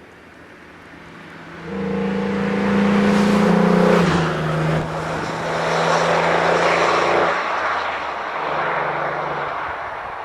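Opel Vectra B 2.6 V6 (Y26SE) with a Jetex Group A exhaust and its pre-catalysts removed, driving past. The steady engine note swells loud within the first two seconds and drops in pitch about four seconds in, then fades away.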